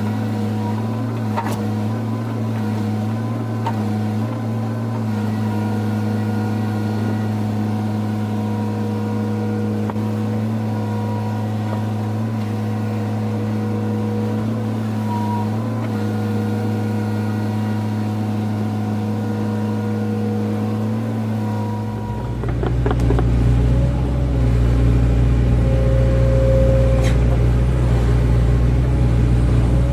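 Excavator's diesel engine running steadily; about three-quarters of the way through it gets louder, with a deeper rumble added.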